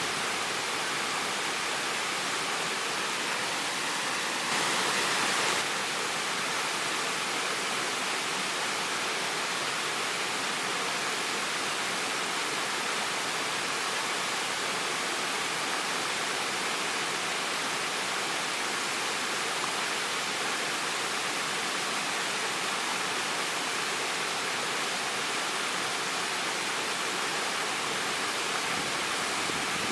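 Waterfall: a steady rushing of falling water, with a brief louder, hissier surge about five seconds in.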